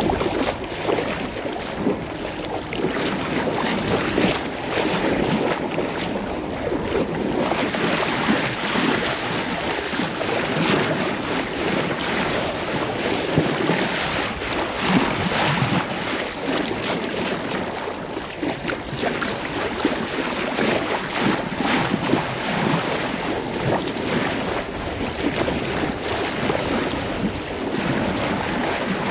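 Wind and sea waves heard aboard a sailing yacht under way, with wind buffeting the microphone; a steady rushing noise.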